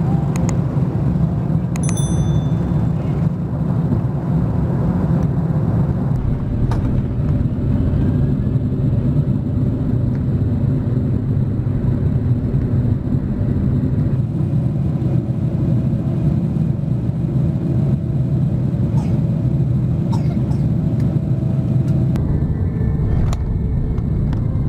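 Airliner cabin noise heard from a window seat: the steady low rumble of jet engines and airflow, with small shifts in tone as one flight's clip gives way to the next.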